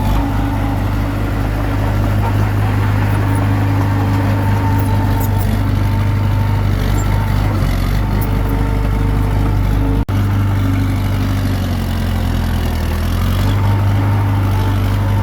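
Komatsu D21P bulldozer's diesel engine running steadily, its pitch sagging and recovering a couple of times. There is a momentary break in the sound about two-thirds of the way through.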